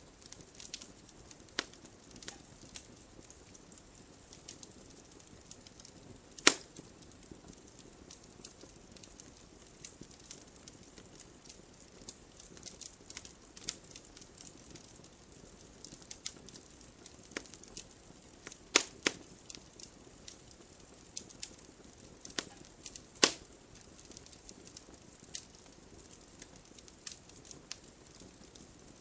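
Wood fire crackling: a soft steady hiss broken by irregular sharp pops and snaps, with three louder cracks, about six seconds in, near the middle, and about two-thirds of the way through.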